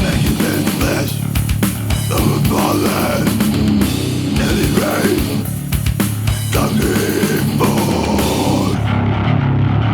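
Death metal recorded on tape: heavily distorted electric guitars over fast, dense drumming, with no clear vocals. The cymbals drop out near the end.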